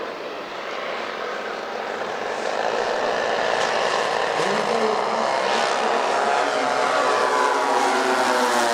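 Several two-stroke petrol engines (Zenoah 38s) on large radio-control scale Avro Lancaster models, running together as the planes fly past. The engine note grows steadily louder, and the pitch drops near the end as they pass by.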